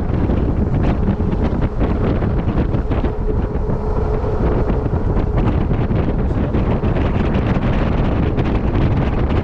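Heavy wind buffeting the microphone on a Club Car DS electric golf cart driving at about 25 mph, with a faint steady whine in the middle.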